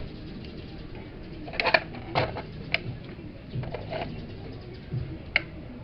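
A few sharp clicks and knocks, loudest about a quarter of the way in, with single ones spread through the rest: tools and parts being handled during washing machine work.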